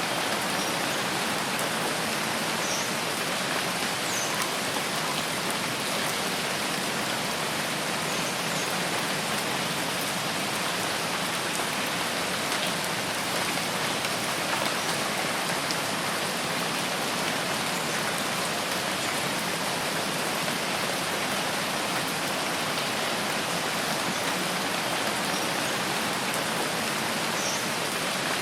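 Steady, even rain falling on foliage, a constant hiss with no letting up, with a few faint short high chirps now and then.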